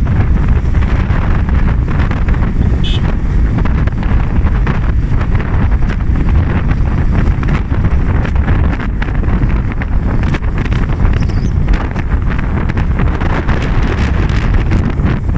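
Heavy wind buffeting the microphone over the steady low rumble of a moving vehicle.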